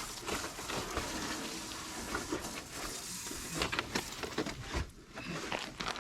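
Steady hiss of water spraying from a garden hose whose loose quick connect has just given way, with a few scattered clicks and knocks.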